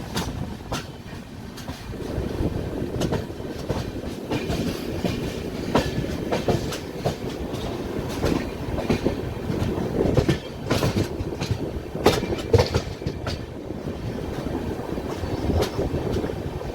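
Rajdhani Express passenger coaches running on the track: a steady rumble with irregular clicking and clacking of the wheels over rail joints, busiest about ten to thirteen seconds in.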